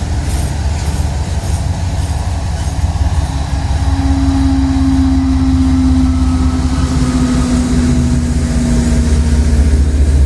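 Train rolling past, a loud steady low rumble that builds over the first few seconds, with a droning tone from about four seconds in that drifts slightly lower in pitch.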